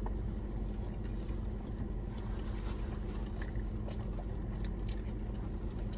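Steady low hum inside a car, with scattered faint clicks and smacks of someone eating fast food.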